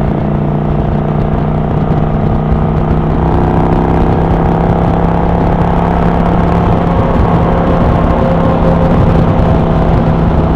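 Kawasaki Vulcan 900 Classic LT's V-twin engine running steadily at cruising speed under way, with a low rumble of wind on the helmet microphone.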